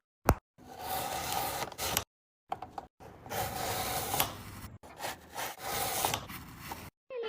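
A few sharp clicks, then three long stretches of rubbing, scraping noise.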